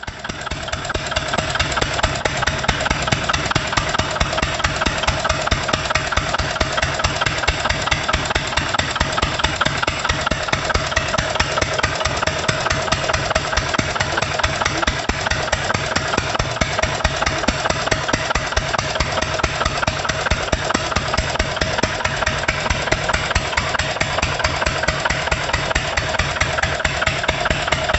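Small single-cylinder dompeng diesel engine driving a motorcycle-wash pump, running steadily with rapid, even firing knocks and a steady high hum over them.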